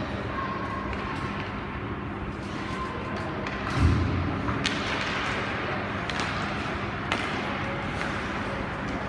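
Ice hockey play in an arena: sharp clacks of sticks and puck scattered over a steady hall noise, with one heavy thud about four seconds in, like a puck or player hitting the boards.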